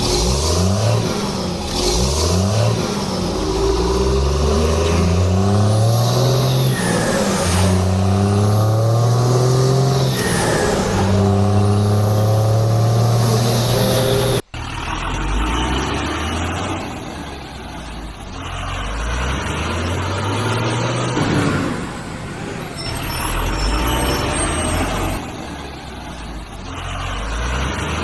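Heavy vehicle engine sounds for a backhoe loader and trucks, revving up in repeated rising sweeps with high whistling glides above them. About halfway through the sound cuts abruptly to a lower, uneven engine run with pitch dips.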